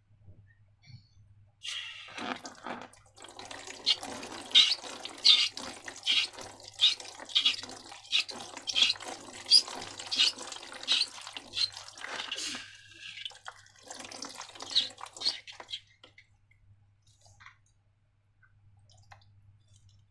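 Wet slime squelching and dripping as it is squeezed and mixed, a steady run of sticky clicks and pops that starts about two seconds in and stops about four seconds before the end.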